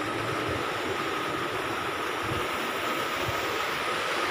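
Steady rush of running water flowing through trout-farm channels and basins, with a faint steady high tone underneath.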